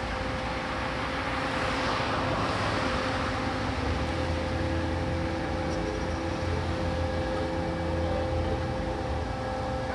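Ferry machinery running steadily: a constant engine hum over a low rumble that swells in the middle of the stretch.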